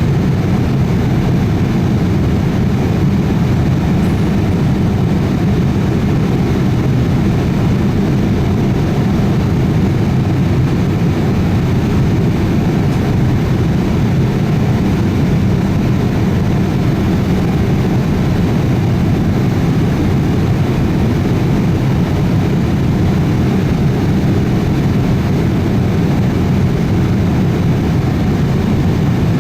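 Steady cabin noise of a Boeing 787-8 airliner in flight: a loud, even rush of engine and airflow noise from its GE GEnx-1B engines, with no change in level.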